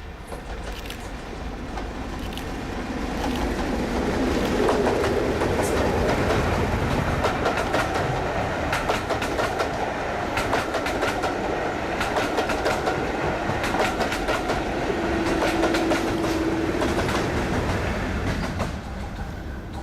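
Train wheels running over rail joints with a steady clickety-clack, building over the first few seconds and then holding loud. A brief steady tone sounds for a second or two near the end.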